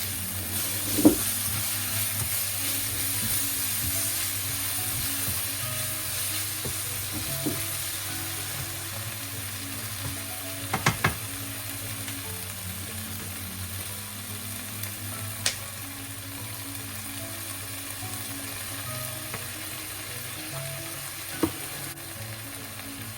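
Food sizzling in a frying pan, a steady hiss with a few sharp clicks and knocks of a utensil against the pan.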